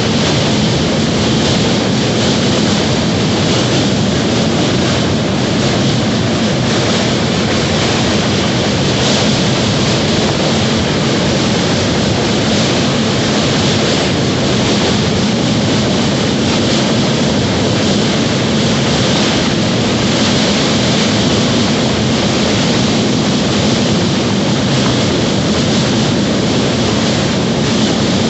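Steady, unbroken rushing rumble of a moving train.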